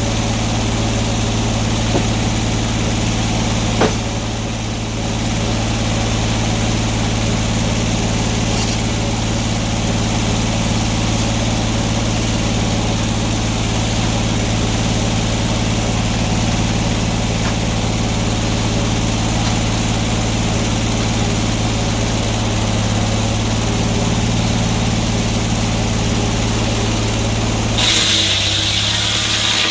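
Sawmill engine running steadily at a constant pitch. Near the end the low engine hum drops away abruptly and a higher, hissing sound takes over.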